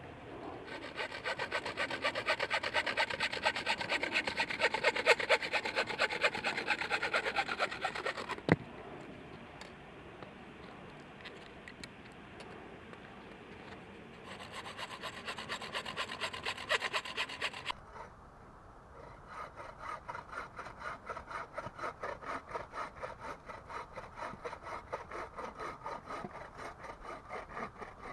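Hand saw cutting through wood in quick back-and-forth strokes, in three bouts with short pauses between them. There is a single sharp knock about eight seconds in.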